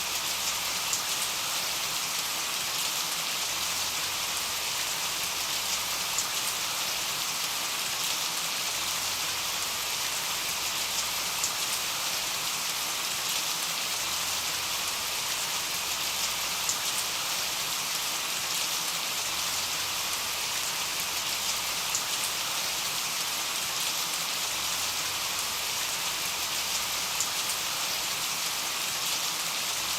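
Steady rain: an even, continuous hiss with scattered sharper drop ticks.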